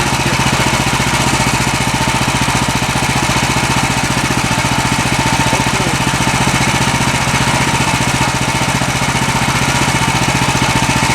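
Small gasoline engine of a Woodland Mills HM126 portable bandsaw sawmill running steadily with a fast even firing rhythm.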